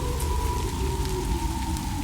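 Steady rain with scattered drop ticks over a low rumble, joined by two held tones that slowly fall in pitch.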